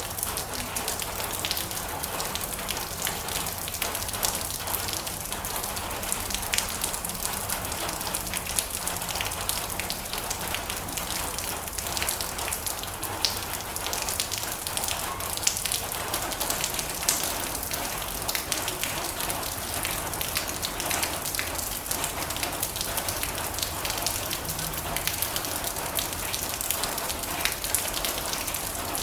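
Heavy rain falling on a metal roof: a steady, dense hiss with many sharp individual drop hits scattered through it.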